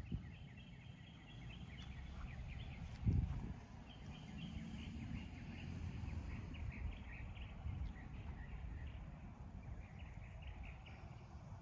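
Small birds chirping over and over in short notes, over a low steady rumble, with one brief low thump about three seconds in.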